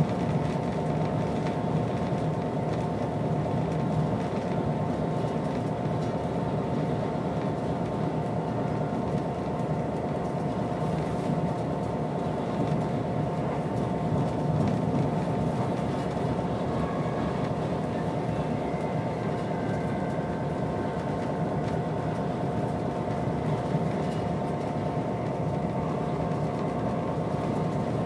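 Class 67 diesel locomotive running along the line, heard from inside its rear cab: a steady rumble of wheels on track with a steady whine over it.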